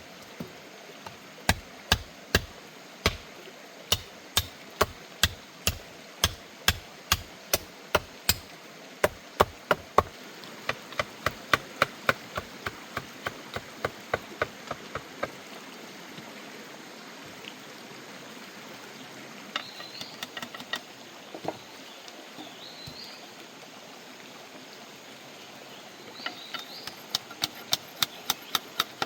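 Repeated sharp knocks at about two a second for ten seconds, then lighter, quicker clicks, over a steady background hiss. A few short bird chirps come in the quieter middle stretch, and the knocking returns near the end.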